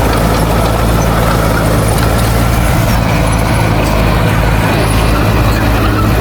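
Heavy earthmoving machine's diesel engine running steadily, a loud constant low drone with no change in speed.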